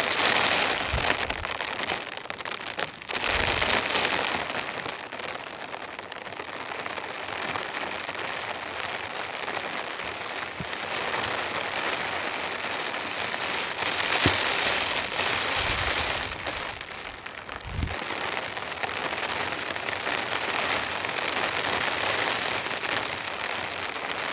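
Light, gentle rain falling steadily, swelling louder a few times, with a few soft low thumps.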